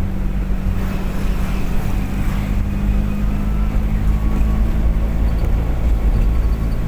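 A car driving along: a steady engine hum, with a constant drone near 200 Hz, over heavy low road rumble.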